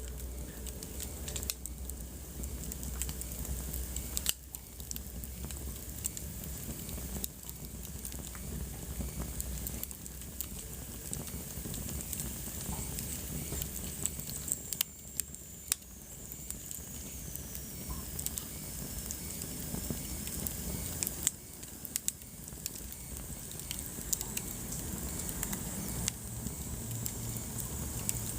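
Wood fire burning in a fireplace: steady hiss with frequent irregular crackles and pops. Midway a faint high whistle slowly falls in pitch.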